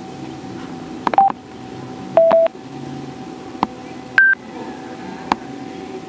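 Sena Momentum helmet's built-in Bluetooth headset giving short electronic beeps: a brief mid-pitched beep about a second in, a slightly lower, longer one near two seconds, and a higher one around four seconds, with a few sharp clicks between them.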